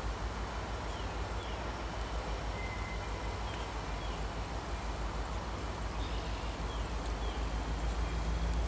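EMD diesel locomotive engine rumbling with a steady low pulse, growing slowly louder. A few small birds chirp faintly over it.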